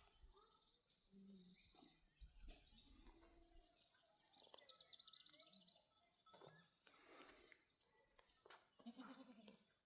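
Quiet outdoor ambience with a small bird singing short, rapid trills of repeated high notes several times, mixed with a few soft, short low sounds.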